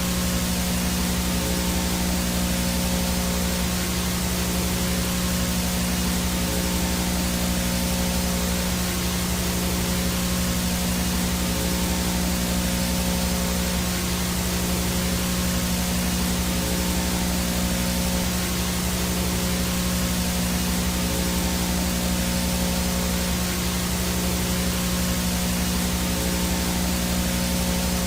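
VHS static noise from a no-signal analog video feed: a steady, even hiss with a low electrical hum underneath.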